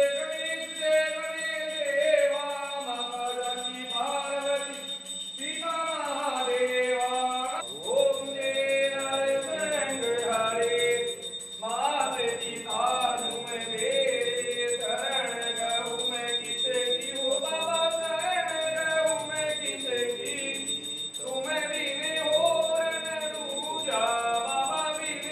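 Hindu temple aarti: voices singing a devotional hymn together, with bells ringing throughout.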